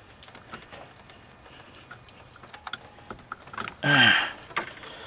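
Light clicks and rattles of test leads and probe clips being handled while the probe is moved to the other battery terminal. About four seconds in comes one short voice-like sound that falls in pitch.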